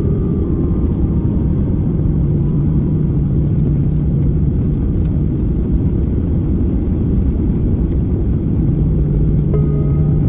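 Steady low cabin rumble of a Boeing 737 Next Generation taxiing after landing, heard from inside the passenger cabin, with a constant low hum under the noise.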